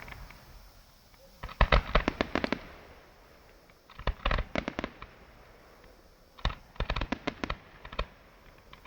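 Fireworks going off in three rapid volleys of sharp bangs and crackles, each lasting about a second, a couple of seconds apart.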